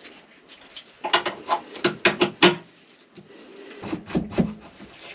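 Handling noises as a water hose is worked into place in a jet ski hull: a quick run of clicks and knocks, then rubbing and dull thumps near the end.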